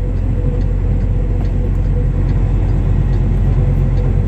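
Steady low drone of a semi truck's diesel engine and road noise, heard inside the cab while the truck is under way.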